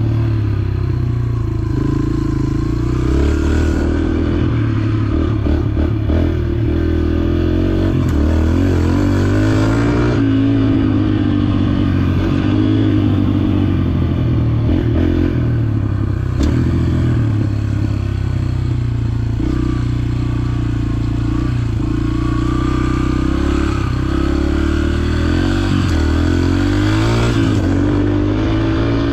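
Dirt bike engine running under load, its revs rising and falling again and again as the rider works the throttle along the trail, with a few brief knocks.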